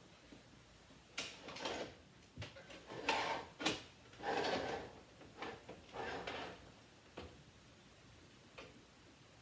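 Irregular handling sounds: about a dozen short knocks, clicks and brief sliding scrapes over some six seconds, with a sharp click near the middle.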